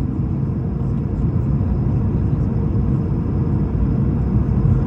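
Airbus A220-300 jet airliner's engines heard from the ground as a steady low rumble.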